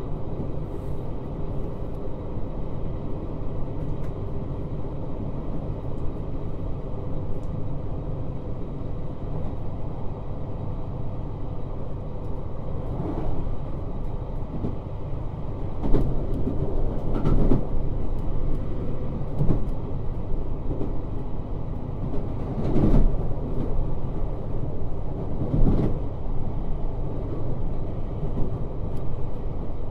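Interior running sound of a JR Hokkaido 721 series 3000 subseries electric train: a steady rumble of wheels on rail with faint steady tones. In the second half come several louder knocks from the wheels passing over the track.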